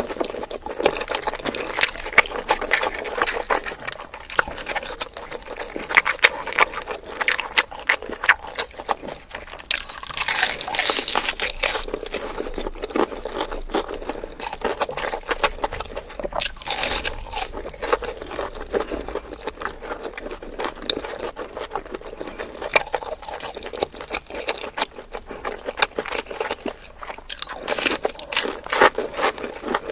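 Close-miked eating sounds: dense crunching and chewing, with crisp crackles and a couple of longer, noisier stretches about ten and seventeen seconds in.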